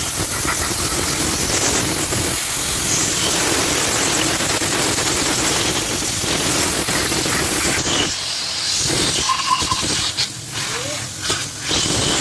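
Loud, steady hiss of a high-pressure jet used to clean a Honda CG 125 engine. The hiss breaks off briefly a few times near the end.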